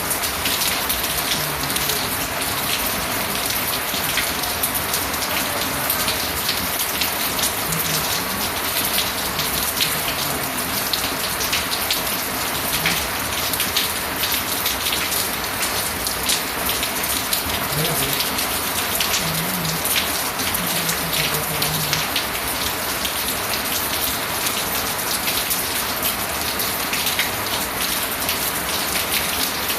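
Steady rain falling, a dense, even patter of drops hitting a surface. Now and then a faint low murmur, like distant voices, sits under the rain.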